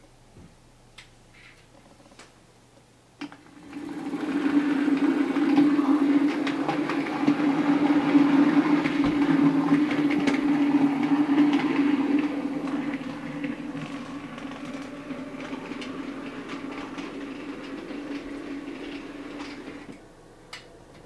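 Bachmann OO gauge Class 47 model diesel locomotive running along the track: a steady electric-motor hum with wheel and rail noise. It starts about four seconds in, is loudest for several seconds as the model passes close, then fades and drops away near the end. A few faint clicks come before it.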